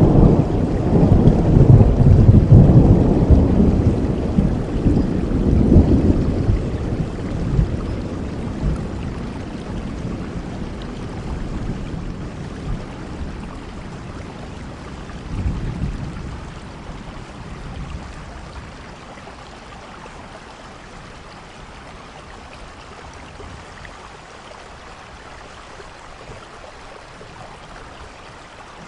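Thunderstorm: a loud roll of thunder rumbles at the start and dies away over several seconds, a smaller rumble follows about halfway through, and steady rain carries on, growing quieter toward the end.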